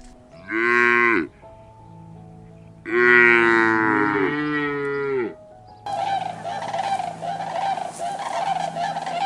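Cow mooing twice: a short moo, then a longer one that drops in pitch at its end. About six seconds in, a different continuous, rough chattering sound takes over.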